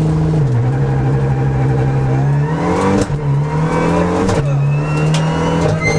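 Renault Mégane N4 rally car's engine heard from inside the cabin. It holds steady revs, then accelerates hard, climbing in pitch twice with sharp gear changes at about three seconds and about four and a half seconds, and a few sharp clicks mixed in.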